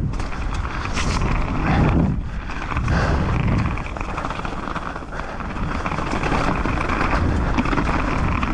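Mountain bike running fast down a dirt trail: a steady rushing noise of tyres and wind, with surges and scattered rattling clicks from the bike.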